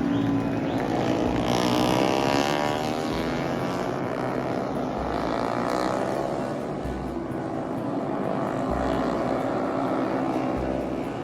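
Racing motorcycles going past at speed one after another, their high-revving engine notes sliding up and down in pitch as they pass.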